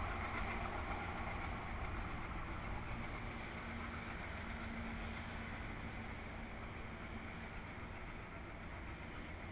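A passenger train hauled by an ALCO diesel locomotive, running away from the listener along the track. Its steady rumble slowly fades as it recedes.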